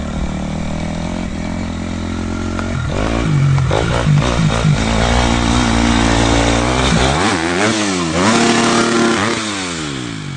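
Dirt bike engine accelerating hard, climbing in pitch through the gears, then revving up and down several times as the throttle is blipped, before dying away near the end.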